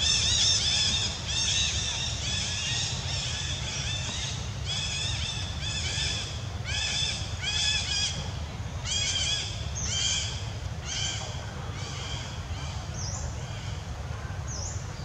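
A bird calling over and over in short arched notes, grouped in bursts about once a second. The calls fade toward the end, and there is a steady low rumble underneath.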